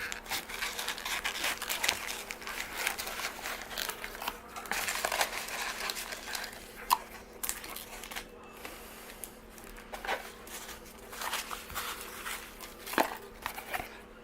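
Trading card packs being taken out and handled, their wrappers crinkling and rustling. The crinkling is dense for the first half, then thins to occasional rustles and sharp clicks.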